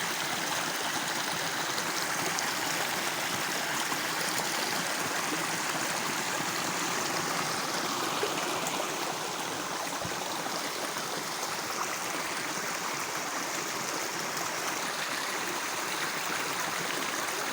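Water from a rain-fed spring welling out of the ground and running over the forest floor: a steady trickling flow.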